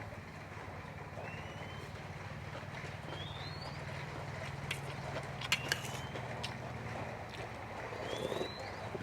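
A bird repeating a short rising whistled call about every two seconds, over a steady low hum and background hiss, with a few sharp clicks in between.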